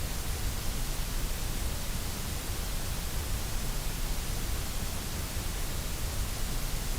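Steady generated white noise: an even, unchanging hiss.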